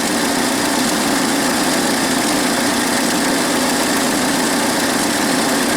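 GM Iron Duke 2.5L four-cylinder engine running steadily at idle, warm, with a slight intermittent misfire from an ignition fault: spark voltage drops out on plug wires 2 to 4, which the owner puts down to arcing inside a worn distributor cap.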